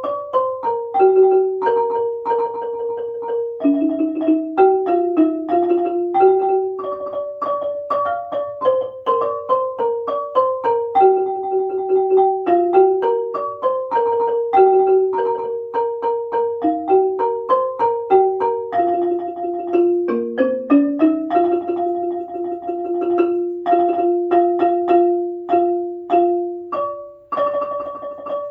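Ranat ek, the Thai classical xylophone, playing a fast melody of struck notes, some notes held as rapid rolls. There is a brief drop in loudness shortly before the end.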